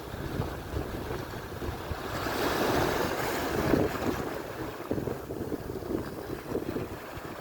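Atlantic surf: a wave breaks and washes in, swelling about two seconds in and easing off after four. Wind gusts buffet the microphone with a low rumble throughout.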